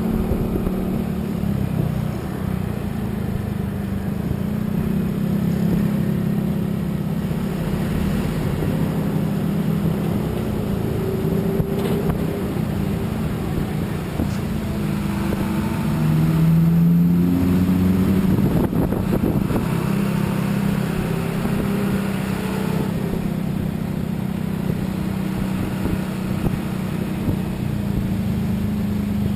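A road vehicle's engine running steadily under way, with road and wind noise. Roughly 15 to 19 seconds in, it gets louder and its pitch shifts up and down.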